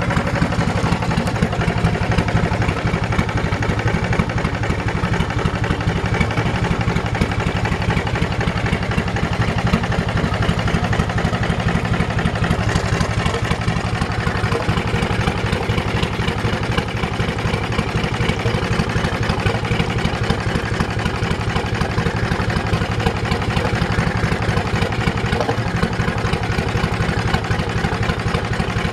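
Yamaha YDX28 boat's engine idling steadily, with an even, fast firing rhythm.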